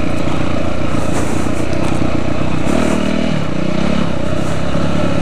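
Dirt bike engine running loud and close, with a brief rise and fall in pitch about three seconds in as the throttle is opened and closed.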